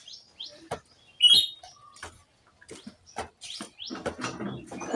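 A few short, high chirps, like small birds, among faint scattered clicks; the loudest chirp comes about a second in.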